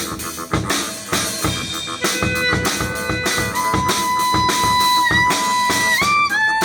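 Band music with a drum kit keeping a steady beat. From about two seconds in, a lead instrument holds long sustained notes that dip and bend upward in pitch near the end.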